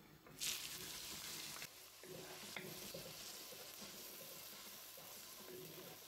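Sliced onions and green chillies sizzling in hot olive oil in a nonstick pan while a wooden spatula stirs them. The sizzle starts suddenly about half a second in, loudest at that moment, then carries on steadily with a few light spatula clicks.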